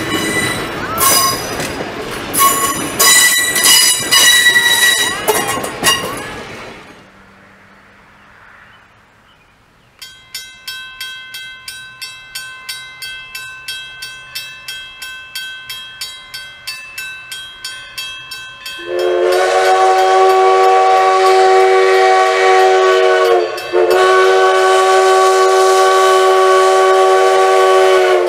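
Passenger coaches rolling past with wheel squeal and rail clicks, fading away. Then a grade-crossing bell ringing about twice a second, and a steam locomotive's chime whistle sounding two long blasts as it approaches the crossing.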